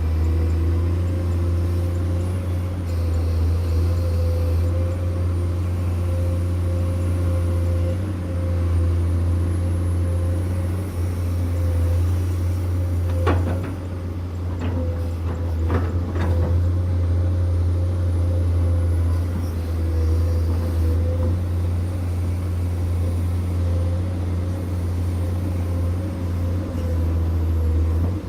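Heavy diesel machinery engine running steadily with a deep, constant drone, with a few sharp knocks about halfway through.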